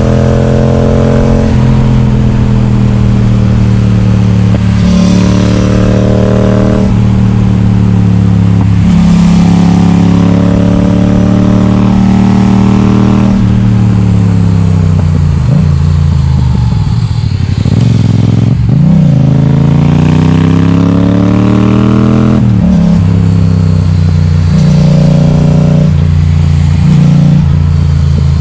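Yamaha XSR700's 689 cc parallel-twin engine, loud through an Akrapovic exhaust with its baffle removed, under way on the road. The engine note climbs and then drops sharply several times as the bike accelerates, shifts and rolls off the throttle.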